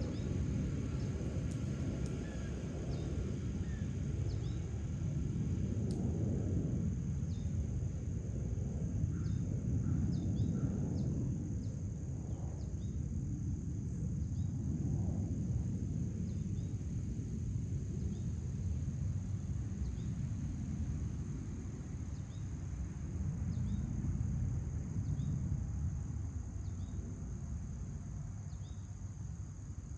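Outdoor backyard ambience: a low rumble that swells and fades, under a steady high insect drone and many short, faint bird chirps.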